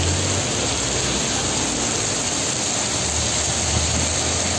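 Heavy rain pouring onto a street and pavement, a dense steady hiss, with a low rumble at the start and again from about three seconds in.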